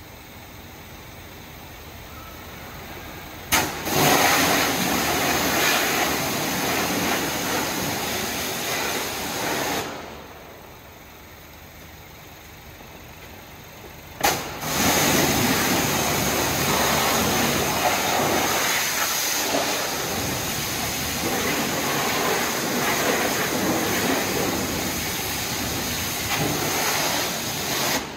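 High-pressure water spray from a pressure washer hitting a car's engine bay in two long bursts. Each burst opens with a sharp click and runs as a loud, even hiss. The first lasts about six seconds, and the second starts about fourteen seconds in.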